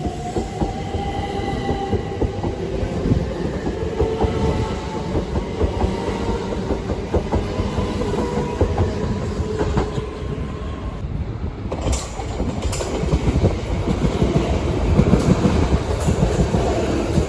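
A train running through on the rails: a continuous low rumble of wheels, with a whine that rises slightly in pitch at the start. In the second half come sharp clicks of the wheels over rail joints.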